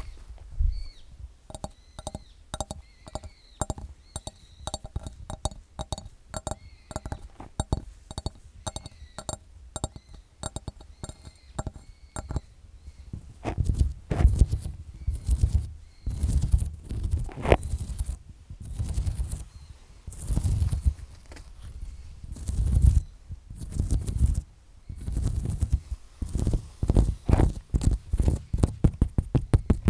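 Long fingernails tapping and scratching close to the microphone: quick light taps at first, then heavier scraping and rubbing strokes from about halfway, with a fast run of taps near the end.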